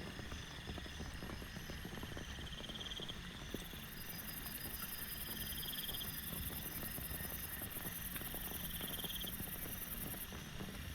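Night insects chirring: crickets with pulsing trills that repeat every few seconds, and a high steady buzz that starts a few seconds in and cuts off near the end. Underneath is a steady hiss with small pattering ticks.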